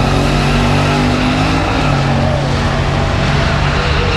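Race cars' engines running hard at full throttle down a drag strip, with the engine notes shifting in pitch under a loud, steady roar.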